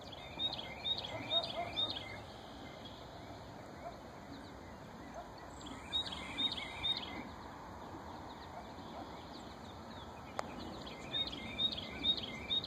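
A songbird sings three short phrases, each a quick run of four or five clear repeated notes, over steady outdoor background noise. A single sharp click comes about ten seconds in.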